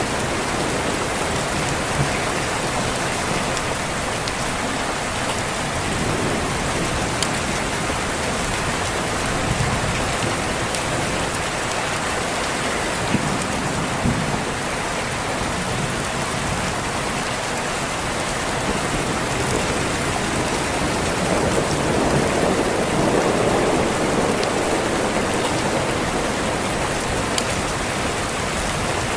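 Steady rain on a window, with a low roll of thunder swelling about two-thirds of the way through. A few sharp pops from a crackling wood fire sound here and there.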